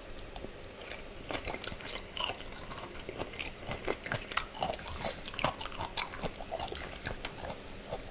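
Close-miked eating: a man chewing a mouthful of spaghetti and sausage, with many short, wet mouth clicks coming irregularly throughout.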